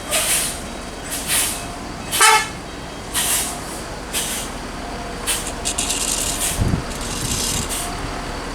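Heavy road vehicle being manoeuvred: short bursts of air hissing about once a second, with a short horn toot about two seconds in and a brief low engine rise near the end.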